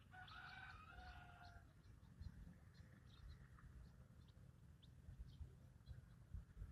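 Faint dawn birdsong: scattered short, high chirps, with a longer drawn-out call in the first second and a half.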